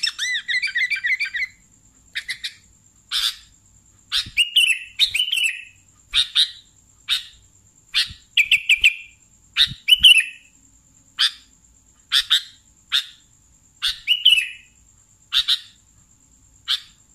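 Sooty-headed bulbul singing: a rippling, warbling phrase at the start, then short chirping notes repeated about once a second, some ending in a brief trill.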